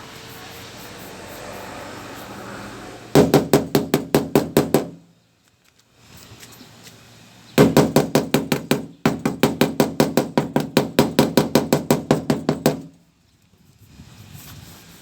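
Rapid hammer taps on a van's sheet-metal body panel, about seven blows a second, in two runs: a short one a few seconds in and a longer one of about five seconds with a brief pause partway through.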